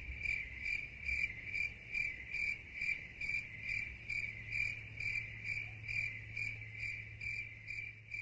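Cricket chirping sound effect: an even train of high chirps, about two and a half a second, over a faint low hum. This is the stock 'crickets' sound used for an awkward silence.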